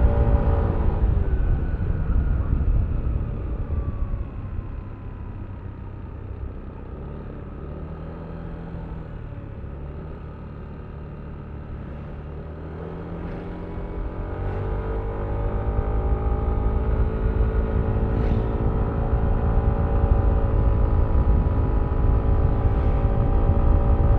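Yamaha Aerox V3 scooter's 155 cc single-cylinder engine with the continuously variable transmission, heard with wind rumble on the microphone: it winds down as the scooter slows and drops to a low idle for several seconds, then revs up again about halfway through and settles into steady running.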